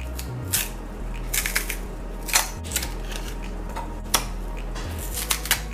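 A few scattered light clicks and knocks, as of handling food and kitchenware, over soft background music with a low, steady bass line.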